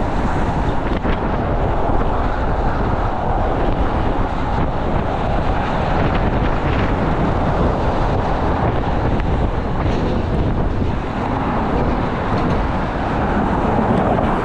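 Steady rumble of vehicle traffic mixed with wind noise on the microphone.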